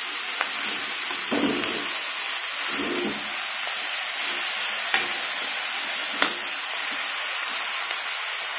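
Chopped mustard greens sizzling in hot mustard oil in a metal kadhai while a metal spatula stirs them. There is a steady sizzle, with the spatula scraping through the greens and clicking sharply against the pan twice about five and six seconds in.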